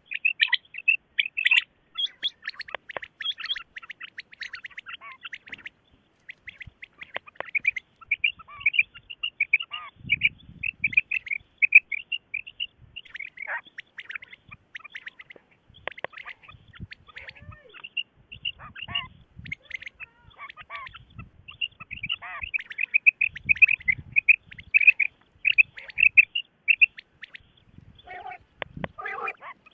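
Common quail calling: a dense run of short, quick chirping notes, several birds overlapping. Lower, coarser notes come in near the end.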